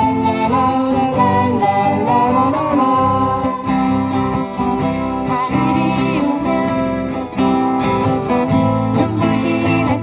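Acoustic guitars strummed in a steady rhythm while singers sing a Korean folk song.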